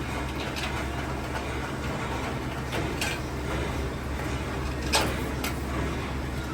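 Metalworking shop noise: a steady low machine hum with a few sharp knocks over it, the loudest about five seconds in.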